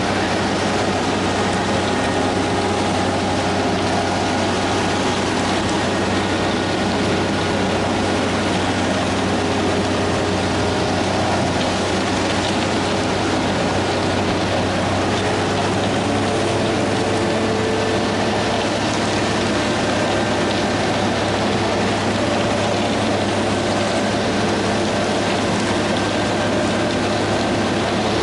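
Heavy construction machinery running steadily: a constant dense noise with a low diesel hum and several steady tones.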